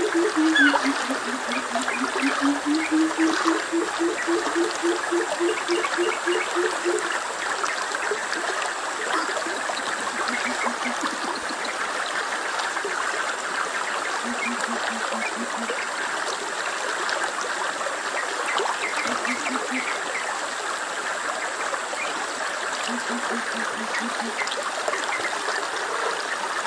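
Flowing stream, a steady rush of water. A low pulsed call repeats over it, in one long run during the first seven seconds and then in short runs three more times.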